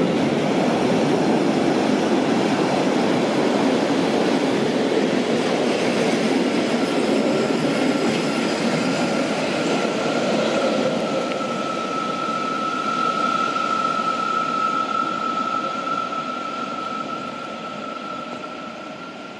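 Narrow-gauge passenger coaches of a departing train rolling past on the rails, then curving away. About six seconds in a steady high-pitched wheel squeal sets in, typical of wheels on a tight curve, and grows loudest before the sound fades as the train draws off.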